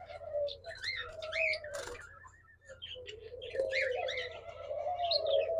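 Aviary of caged birds calling: many short, arching chirps and twitters from small cage birds over a low, wavering dove coo, with a brief lull a little past halfway.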